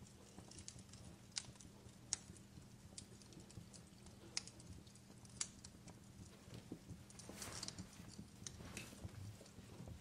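Wood fire crackling in a fireplace: faint, irregular sharp pops and snaps, with a couple of brief hissing flare-ups near the end.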